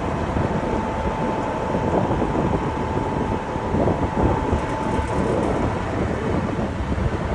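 Caterpillar 3406B diesel engine of a 1991 International Eagle dump truck running, a steady low rumble with a faint high whine through the first few seconds.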